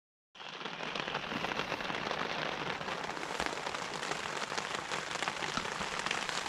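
Heavy rain falling steadily on a tent and tarp, a dense patter of many separate drop hits, starting abruptly just after the start.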